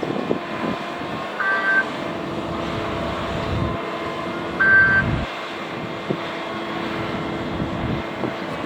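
Rham DT32 battery-electric underground dump truck running with a steady hum and low rumble, while its warning beeper sounds a short beep twice, about three seconds apart.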